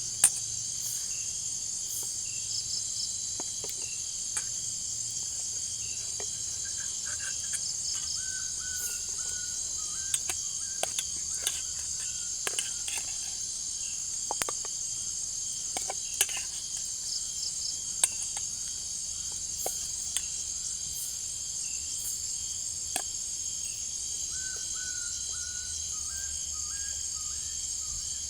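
Steady high-pitched chorus of jungle crickets and other insects, with scattered sharp crackles, likely from the campfire. A short stepped call of a few notes comes twice, about a third of the way in and again near the end.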